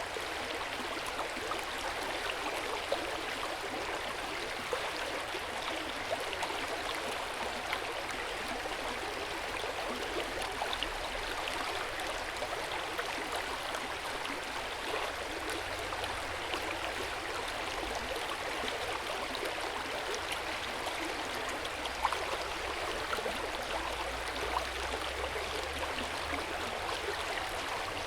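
Hot spring water flowing steadily into an open-air bath: a continuous splashing trickle with small scattered drips and plops.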